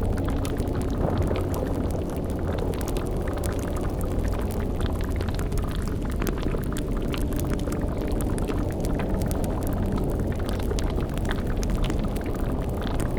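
Sound-designed witch's cauldron boiling: a steady low rumble with bubbling and many small crackles, like a fire burning beneath it.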